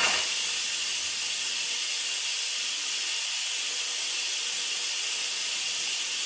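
Instant Pot pressure cooker venting steam through its release valve in a quick release, a loud steady hiss that starts abruptly and cuts off suddenly near the end, once the pressure is gone.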